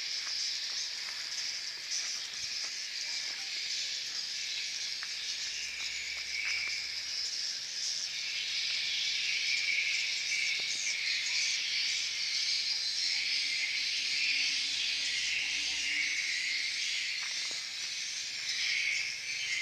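Dense, continuous chorus of edible-nest swiftlets twittering and chirring in a swiftlet house, many calls overlapping into a steady high-pitched buzz.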